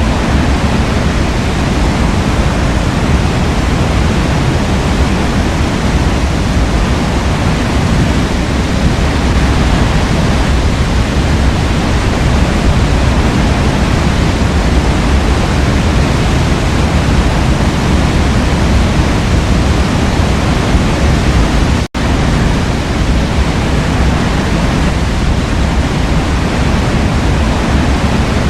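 Waterfall rushing steadily, a dense even roar of falling water, broken once by a split-second gap about three quarters of the way through.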